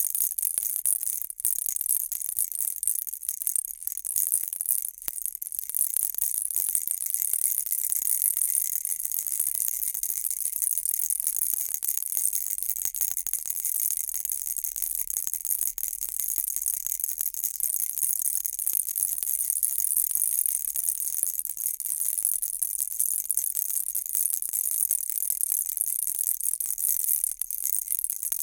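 Baby rattle shaken steadily, giving a continuous bright, high-pitched rattling.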